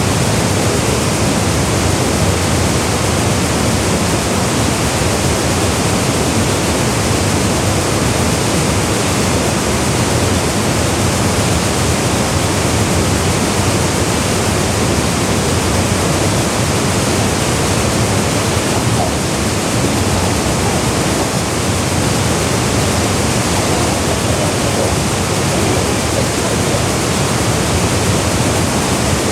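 Waterfall pouring into a gorge pool: a loud, steady rush of falling water with no change.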